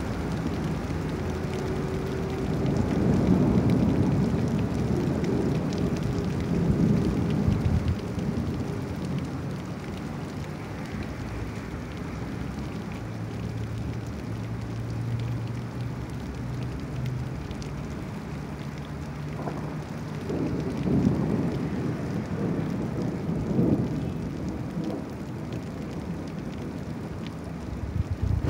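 Heavy rain falling on a city street, with vehicles passing on the wet road. Low rumbles swell and fade several times, and a low engine hum runs for a few seconds partway through.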